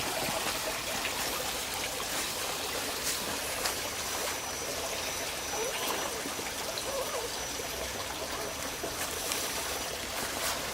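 Water trickling and running steadily, like a small stream, with a thin high steady whine from about four seconds in until near the end.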